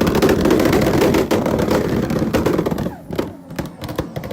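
Loud car engine being revved, its exhaust crackling with rapid sharp pops, dropping off about three seconds in.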